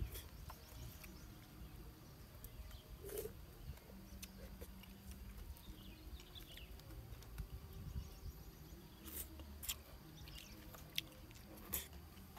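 Soft, quiet chewing of young coconut flesh, broken by a few short, sharp clicks of wooden chopsticks scraping inside the green coconut shell.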